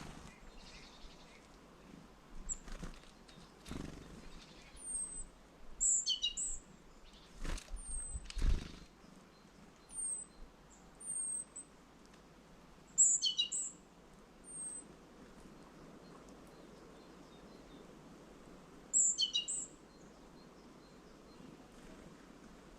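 Small songbirds calling: thin, high chirps scattered through the first half, and three short, quick chattering calls. Several dull knocks come in the first nine seconds.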